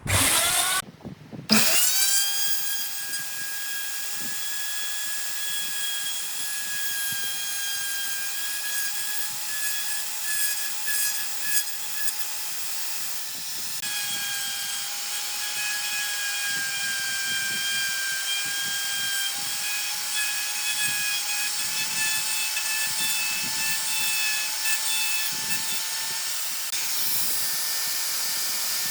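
High-speed electric power tool working wood. After a brief burst at the start, it spins up about a second and a half in with a quickly rising whine. It then runs steadily, its pitch wavering slightly as it bears on the work.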